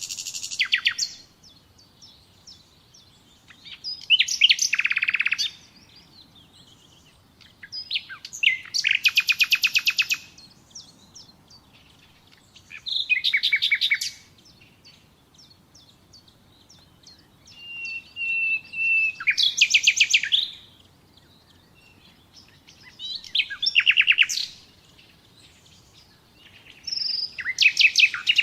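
Nightingale singing: a series of short song phrases, one about every four seconds, each a rapid run of repeated notes. One phrase, about two-thirds of the way in, opens with a held, steady whistle before breaking into the fast notes.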